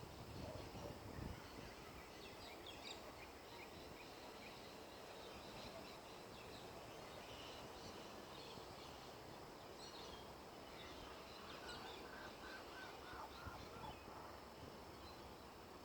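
Faint birdsong: scattered high chirps throughout, with a short series of lower repeated notes about two thirds of the way through, over quiet outdoor background noise.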